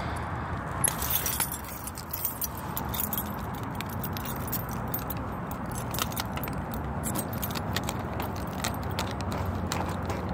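Keys jangling and clinking in irregular bursts, over a steady low background rumble.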